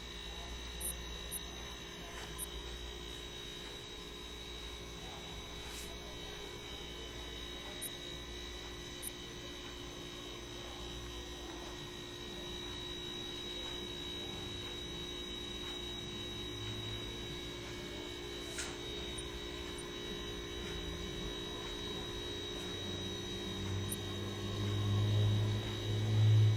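Steady electrical hum with a faint high whine over it, and a louder low hum that swells briefly near the end.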